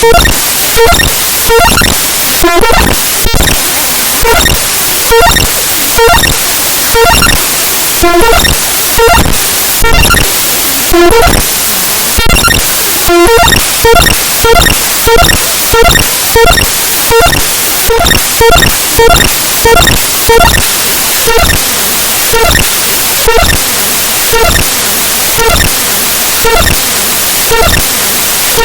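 The raw bytes of the Windows imageres.dll file played back as audio: loud, harsh digital static that pulses in a regular rhythm about every two-thirds of a second, with short beeping blips from the repeating structure of the file's data.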